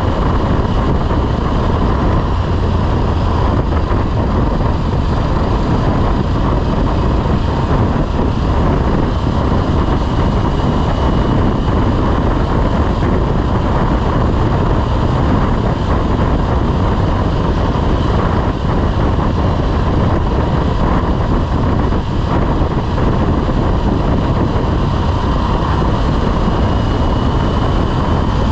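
Motorcycle engine running steadily at road speed under heavy wind rush on the microphone, with a faint steady engine whine.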